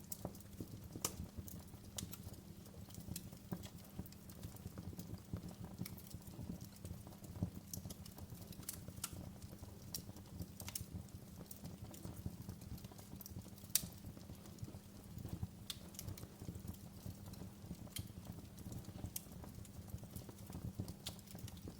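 Wood fire burning in a fireplace: a steady low rumble of flames with irregular sharp crackles and pops, one louder pop about two-thirds of the way through.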